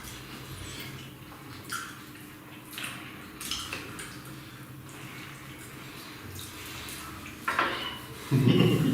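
Eating noises of people eating parotta and curry by hand: scattered wet smacks, chewing and squelches with an occasional clink from plates, over a steady low hum. A louder low sound breaks in near the end.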